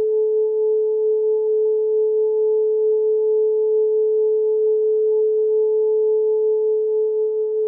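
Steady electronically generated 432 Hz tone, held without change, with a fainter tone an octave above it.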